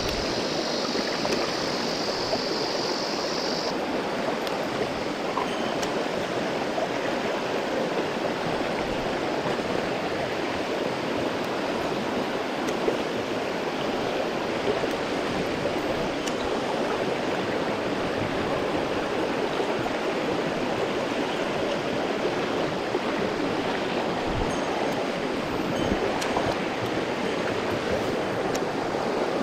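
Mountain stream water rushing steadily. For the first few seconds a high, wavering whine sits over it.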